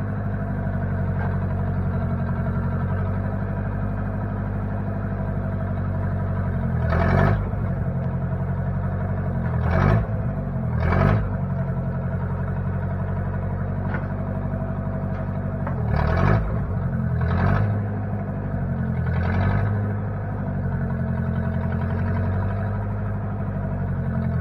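Engine of a 1960 Case 540 tractor-loader-backhoe running steadily, with about six brief louder surges in which the engine pitch dips and comes back up.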